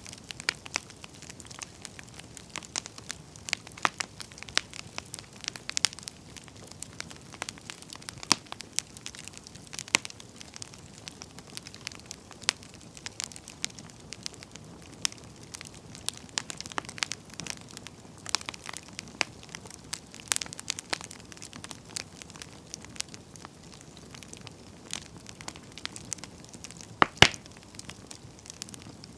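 Wood campfire burning, crackling and popping irregularly over a soft steady hiss, with one louder pop near the end.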